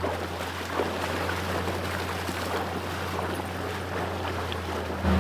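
Vehicle engine running at a steady low idle, with river water rushing and splashing.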